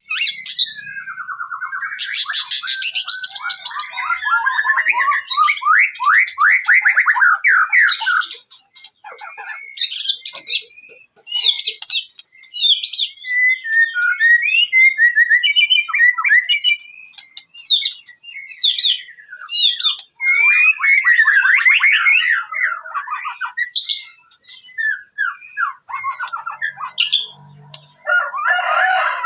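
White-rumped shama (murai batu) singing a long, varied song: fast trills of repeated notes, rising and falling whistles, and a harsh buzzy note about two seconds in, broken by brief pauses.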